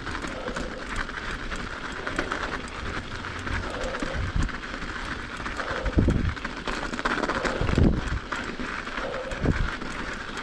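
Mountain bike climbing on hard-packed snow: a steady crunching and rattling of tyres and frame, with heavier thumps about six and eight seconds in.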